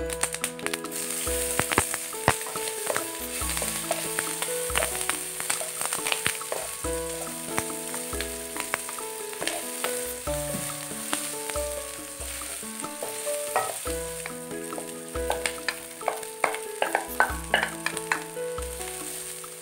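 Sliced garlic, shallots and chilies with dried anchovies sizzling in hot oil in a wok as they are stir-fried, with scattered clicks and scrapes of a wooden spatula against the pan. Background music with a steady bass beat plays under it.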